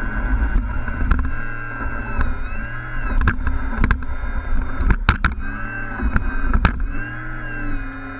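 Engine sound of a scale RC truck running, its pitch rising and falling gently a few times as it is driven, with several sharp clicks and knocks in the middle.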